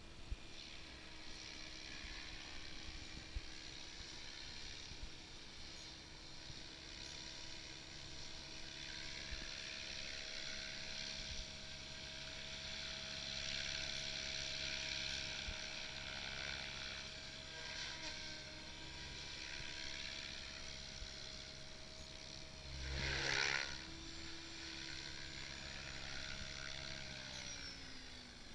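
SAB Goblin 700 electric RC helicopter running, a steady whine of motor and rotors with a high hiss, swelling briefly about two-thirds of the way through. Near the end the pitch slides down as the rotor spools down.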